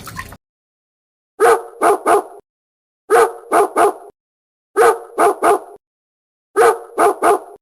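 Dog barking: the same phrase of three quick barks repeated four times, about every one and a half to two seconds.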